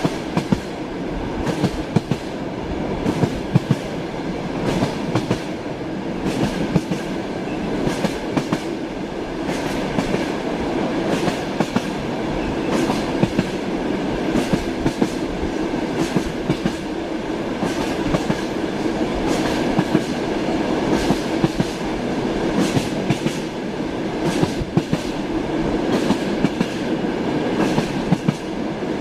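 Passenger train heard from inside a compartment: a steady rolling rumble with the clickety-clack of the wheels striking rail joints, the knocks coming in irregular clusters.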